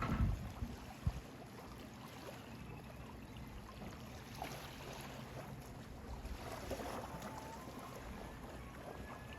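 Outdoor waterfront ambience: wind rumbling on the microphone, with a gust thump at the start and another about a second in, and a few faint high calls later on.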